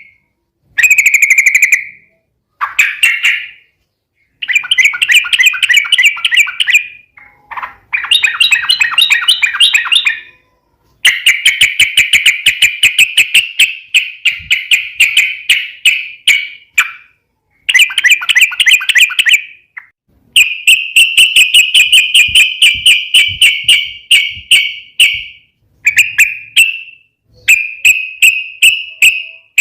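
Yellow-vented bulbul (trucukan) singing in its fighting mode: a run of loud, fast chattering phrases of a few seconds each, with short gaps between them.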